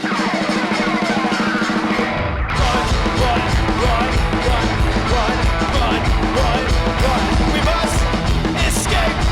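Live rock band playing. A fast snare drum roll over a held tone builds for about two seconds, then the full band crashes in with bass, guitars and drums.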